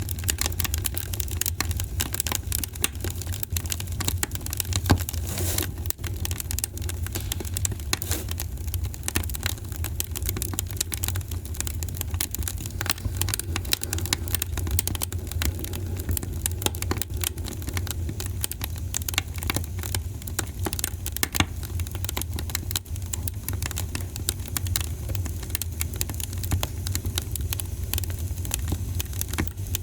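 Wood fire crackling steadily, with dense irregular snaps and pops over a low rumble of the burning.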